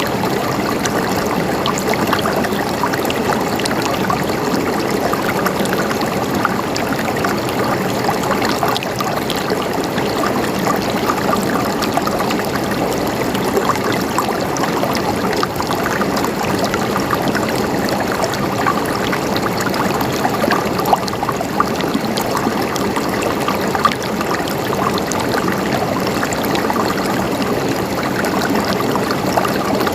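Water running steadily over stones, a small stream trickling and gurgling with many little splashes.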